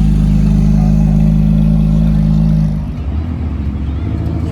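Car engine running loud and close at a steady low pitch, then the sound drops off sharply about three seconds in.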